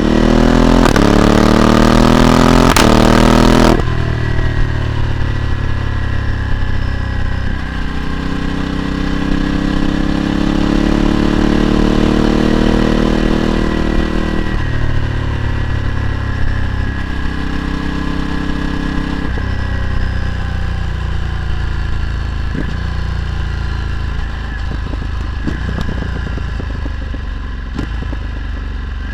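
Ducati Multistrada 1260's L-twin engine through a Termignoni exhaust, revving up hard under acceleration with the pitch cut back at each upshift, several times. Toward the end it settles into lower, steadier running.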